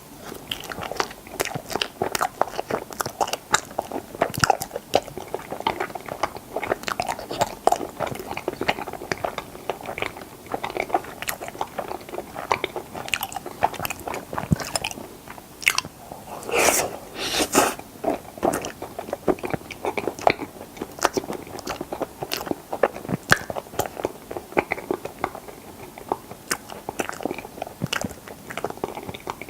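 Close-miked chewing and biting of strawberry mochi ice cream: wet mouth clicks and smacks with crunchy bites, irregular and continuous. A louder, longer burst of mouth noise comes a little past the middle.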